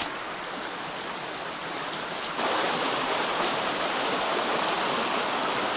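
Rushing water of a mountain stream, a steady hiss that grows suddenly louder about two seconds in.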